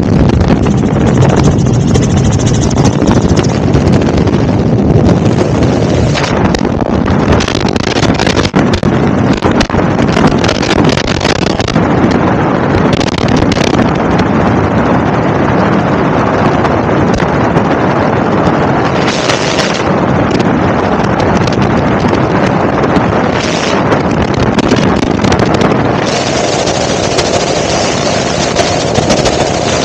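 Loud, steady helicopter engine and rotor noise with wind buffeting the microphone; a steady whine joins near the end.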